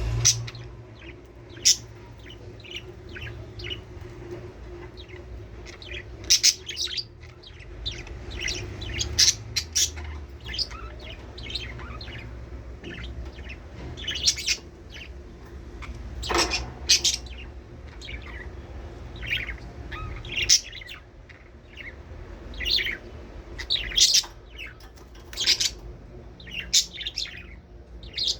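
Budgerigars chirping and warbling: an irregular stream of short, high chirps and chatter, several birds calling over one another.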